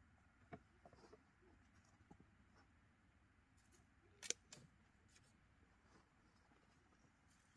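Near silence with a few faint small clicks, and one sharper click a little past halfway.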